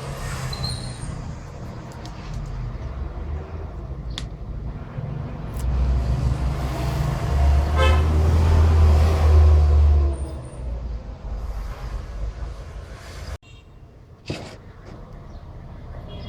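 A low rumble like a road vehicle passing, swelling to its loudest about eight to ten seconds in and then fading, with a brief horn-like tone near the peak and a few sharp clicks.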